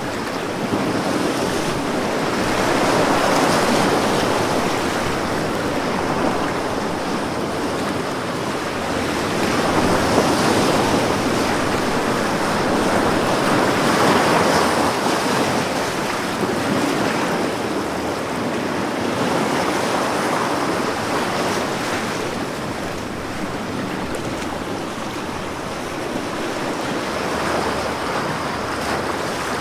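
Ocean waves breaking and washing on a beach, the surf swelling and easing every few seconds.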